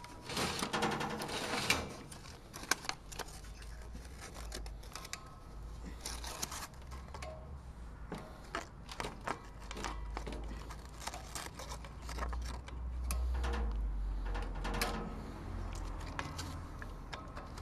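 Handling noise from fitting a propane tank into a portable propane heater: irregular clicks, knocks and short scrapes of metal and plastic, over a low rumble.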